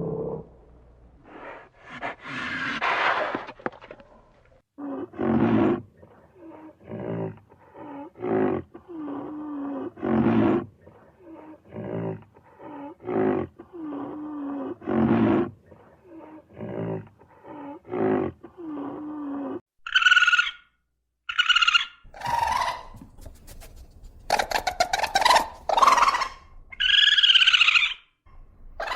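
A large wild animal's repeated roaring grunts, a long run of short calls roughly one a second, followed near the end by a different set of higher, shorter animal calls.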